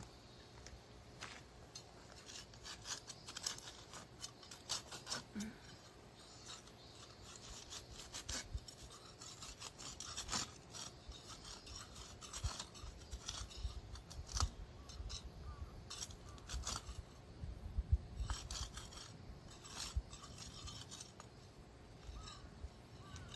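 Hand sickle scraping and cutting at weeds and grit on the ground: irregular rasping strokes, coming in quick runs.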